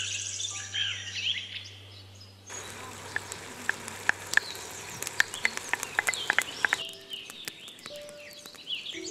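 Birds chirping, then from about two and a half seconds a steady hiss with many sharp crackles from vegetables sizzling in a cooking pot over an outdoor fire as corn is tipped in; the crackling thins out near seven seconds and birdsong continues.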